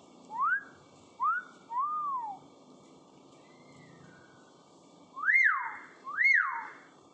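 Hill myna whistling: five clear notes that rise and fall, three quick ones in the first two seconds, then two louder, longer ones about five and six seconds in.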